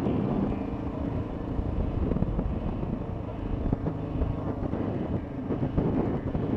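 Honda XR650L's air-cooled single-cylinder engine running while the motorcycle is ridden, its pitch shifting a little as speed changes, with wind rumbling over the microphone.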